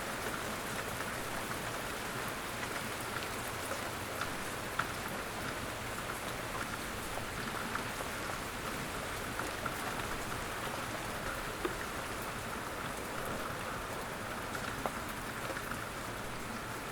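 Steady rain falling outdoors, with individual drops ticking sharply now and then over the even patter.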